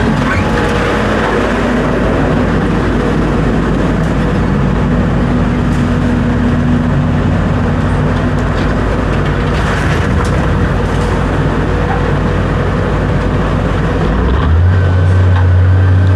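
A motor vehicle's engine running steadily with road noise; about fourteen seconds in, the engine note steps up and grows louder.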